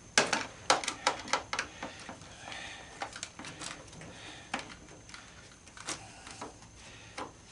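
Scattered sharp clicks and knocks of hand tools working at the fasteners, several in quick succession in the first second and a half, then sparser.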